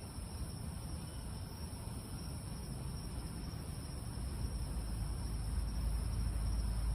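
Steady night-time chorus of insects such as crickets, a high even shrill. Under it a low rumble builds over the second half, like a vehicle drawing near.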